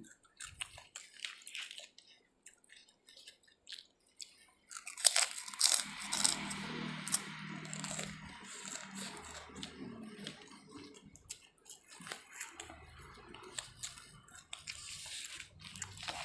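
Close-up chewing of fried rice eaten by hand, with crackling and crunching. It starts about five seconds in after a quieter stretch of small clicks.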